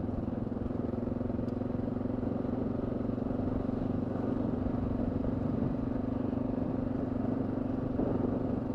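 Honda XR650L's single-cylinder four-stroke engine running at a steady speed while riding along a loose gravel road.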